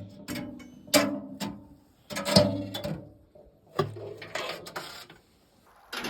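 Repeated heavy knocks, each sharp at the start with a short low ringing and a rasping tail, about one every second and a half, five in all.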